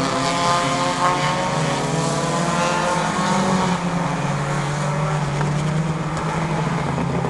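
Lightning Bug class race car engines running at speed as the cars lap the oval, their pitch rising over the first few seconds and then holding steady.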